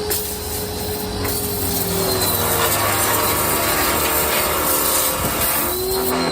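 Small Ryobi electric pressure washer running, its motor humming steadily under the hiss of the water jet spraying.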